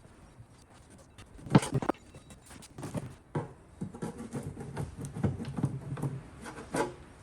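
Pry bar working at the oil pan of an LT1 V8 to break it loose from its glued gasket: a few sharp metal knocks, the loudest about one and a half seconds in, among lighter scrapes and clicks.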